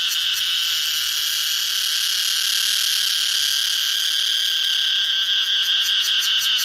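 Cicadas singing: a steady, high, shrill buzzing drone. A fast pulsing of about five beats a second comes back into it near the end.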